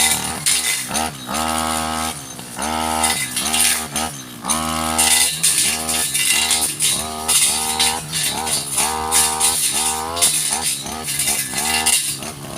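Stihl two-stroke brush cutter engine revving up and easing off again and again while cutting, its pitch rising at each throttle and holding for a second or so.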